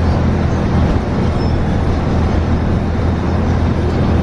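Steady low rumble of a bus in motion, heard from inside the cabin.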